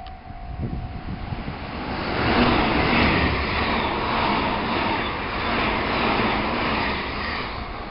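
An electric train passing close by at speed, the rush of its wheels and air building over about two seconds and then holding steady.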